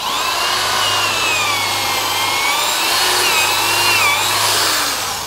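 Handheld power tool running for about five seconds under a varying load, its high whine wavering up and down in pitch over a loud rasping noise.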